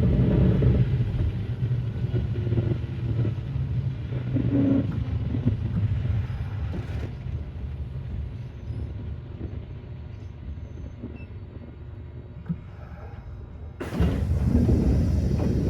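Kintetsu 9200 series electric train heard from inside, its running rumble of wheels and motors fading steadily as the train slows. About fourteen seconds in, a sudden louder rush of noise cuts in.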